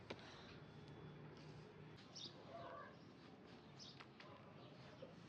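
Near silence with a few faint, short bird chirps, about two seconds and four seconds in, over quiet outdoor background.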